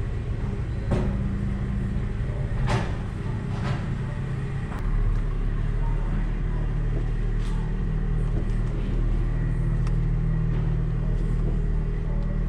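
BMW 440i's turbocharged inline-six running at low speed, a steady low hum with a few sharp clicks in the first few seconds; about five seconds in a deeper rumble comes in and holds, a little louder.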